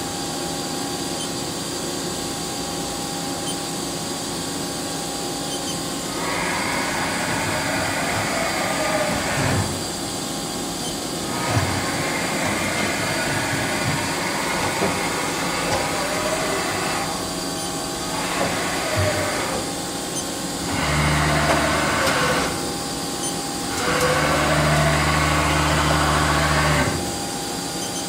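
Haas SL-30T CNC turning center running through a test cycle: a steady machine hum, with motors whirring on and off in spells of a few seconds. Some spells end with a gliding pitch as the motor speeds up or slows down, and there are a few single clunks. Near the end, two spells carry a loud low hum.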